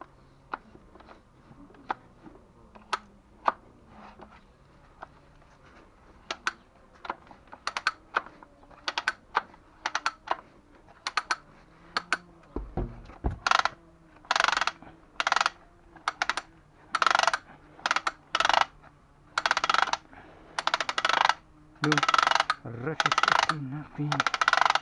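Scattered sharp clicks and taps, then from about halfway through a run of short rasping strokes, roughly two a second, each under a second long.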